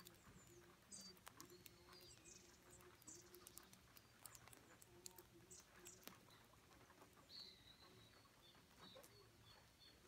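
Faint birdsong: short high chirps and calls repeating about once a second, then a thin high whistled note held from about seven seconds in. Under it are a faint low hum and scattered soft clicks.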